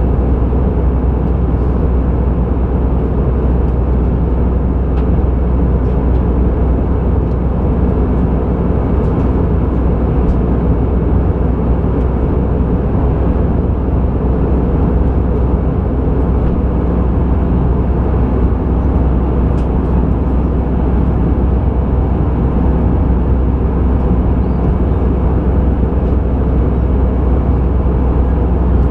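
Steady low rumble of an Airbus A320 in flight, heard from inside the cabin: engine and airflow noise.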